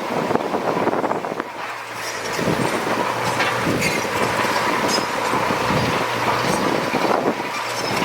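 Heavy diesel earthmoving machinery running, with a steady low engine hum and scattered metallic rattles and clanks.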